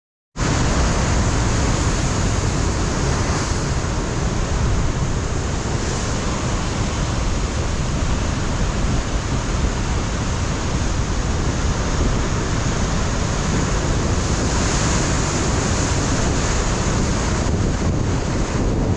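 Ocean surf breaking on a rocky shore, a dense steady wash of noise, with wind buffeting the microphone.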